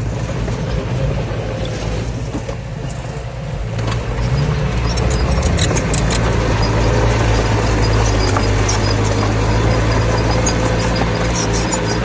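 Heavy diesel engine of earthmoving machinery running steadily, getting louder and working harder about four seconds in, with bursts of rapid clicking around the middle and near the end.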